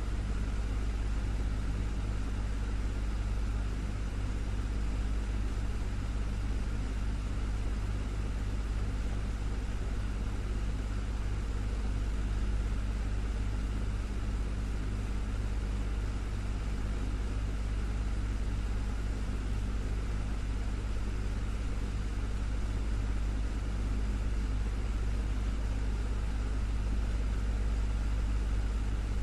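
Desktop fan running steadily: a constant low hum with a whir of moving air over it.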